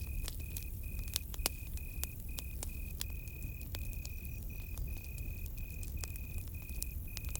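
Campfire crackling with frequent sharp pops over a low rumble, while a cricket chirps in short high trills about twice a second.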